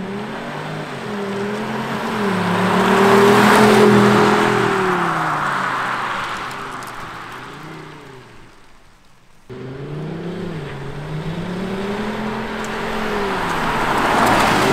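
Mercedes-Benz E200 Cabrio's four-cylinder turbo petrol engine, its note boosted by an aftermarket Active Sound actuator in a dynamic sound profile, driving past twice. Each pass swells to a peak and fades, the pitch climbing and dropping as it goes, and the second pass cuts in suddenly about nine and a half seconds in.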